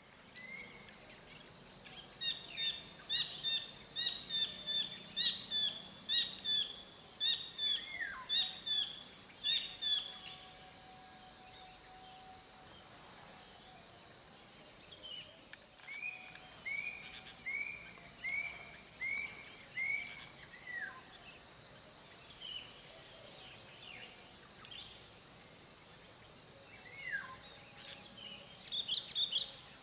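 Wild birds singing: a quick run of repeated high notes, about two a second for several seconds, then a series of six down-slurred whistles about halfway through, with more calls near the end. A steady high-pitched hiss runs underneath.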